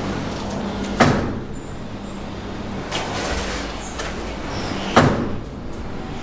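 Bricklayer's trowel scraping and turning mortar in a rubber tub, three strokes about two seconds apart, over a steady low hum.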